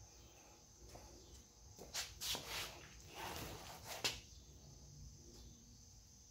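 Faint, steady chirring of crickets in the background. For about two seconds in the middle there is louder scraping and rustling handling noise.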